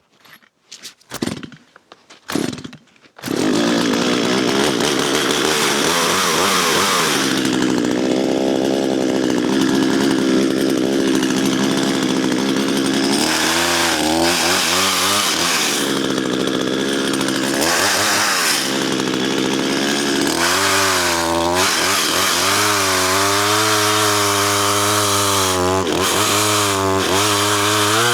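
Chainsaw cutting a fallen spruce log into sections, its engine pitch dropping and recovering several times through the cut. The chain is dull and needs refiling, as the sawyer judges. A few short sounds come first, and the saw starts running loud about three seconds in.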